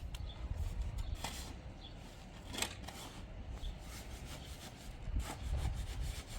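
Irregular rubbing and scraping with a few short knocks over a low rumble.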